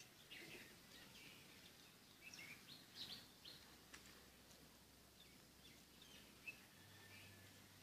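Faint, scattered short bird chirps against near silence.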